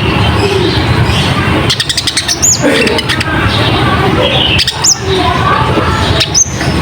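Recorded konin (kolibri ninja) sunbird call played as a bird lure: a quick run of clicking notes, then three sharp, high whistled notes that rise and fall, about two seconds apart, over a dense, busy background.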